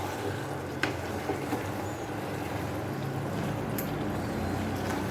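Chicken curry with potatoes simmering and sizzling in a non-stick pan on the stove, over a steady low hum, with a sharp click a little under a second in.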